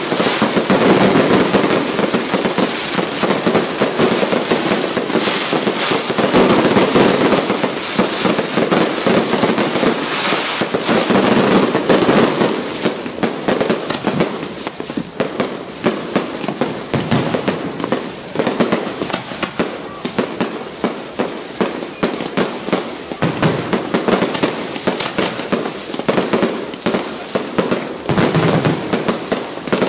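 Fireworks going off in a dense, continuous barrage of bangs and crackling. About halfway through it thins into separate sharp pops in quick succession.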